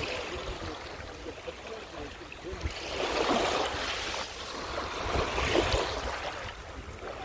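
Sea waves washing onto a beach, swelling twice, with a low rumble of wind on the microphone.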